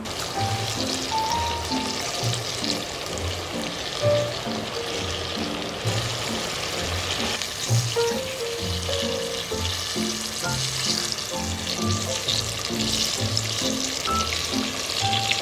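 Food sizzling and crackling in a hot pan as a steady hiss, under background music with a melody.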